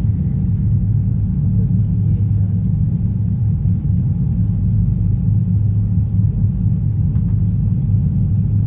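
Passenger train running along the rails, heard from inside the carriage: a steady low rumble.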